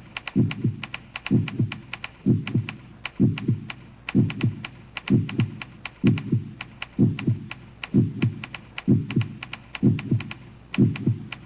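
A steady beat: a low double thump about once a second, like a heartbeat, with quick ticking clicks between the thumps.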